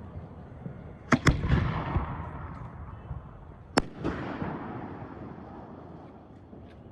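Fireworks display: two sharp bangs in quick succession about a second in and another just before four seconds, each followed by a crackling, rumbling tail that dies away.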